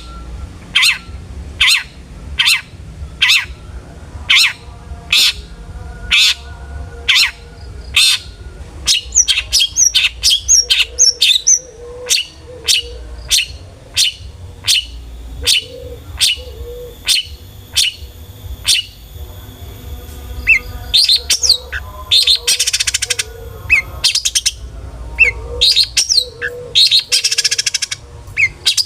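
Long-tailed shrike (cendet) singing a full-mimicry song: a run of sharp calls repeated about twice a second, then a varied stretch of quick chirps and mixed notes, with harsh buzzing rasps about two-thirds of the way through and again near the end.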